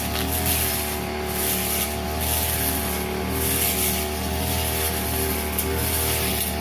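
Brush cutter engine running steadily at high speed while cutting grass, with a high hiss that dips about once a second as the cutter swings.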